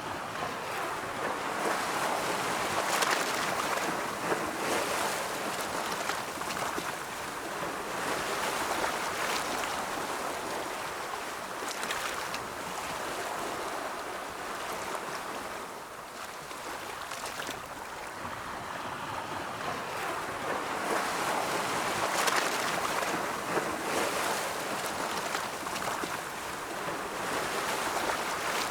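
Ocean waves: a continuous rush of surf that slowly swells and eases, louder a few seconds in and again about three quarters of the way through.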